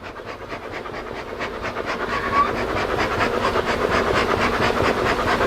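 A dog panting rapidly close by, about five quick breaths a second, getting louder.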